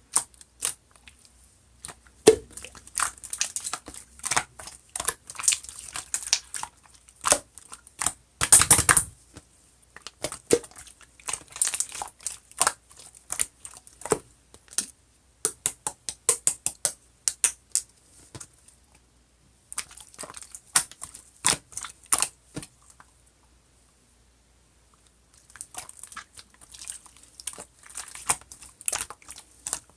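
Slime being squished and pressed by hand, making irregular sticky clicks and pops, with a pause of a couple of seconds about three-quarters of the way through.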